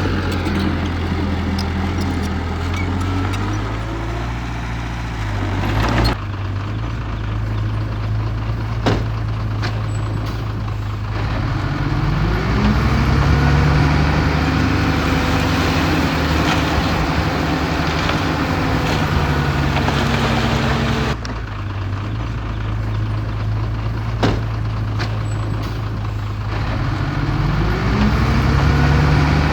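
Heavy diesel engine of earthmoving equipment running at a low, steady pitch. It revs up about halfway through and again near the end, with a few sharp knocks.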